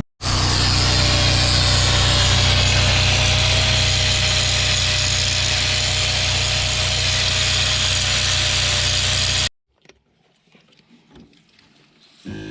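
Loud, steady machine noise with a low hum and a faint high whine. It starts abruptly and cuts off suddenly near the end.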